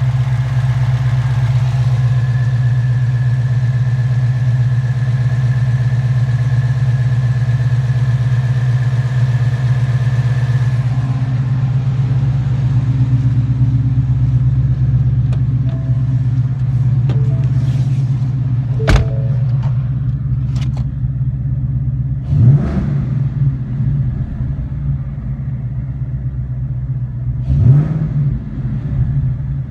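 Ford Mustang GT's Gen 2 Coyote 5.0-litre V8 running at idle, blipped twice, once about two-thirds of the way in and once near the end. A high whine drops out about a third of the way in.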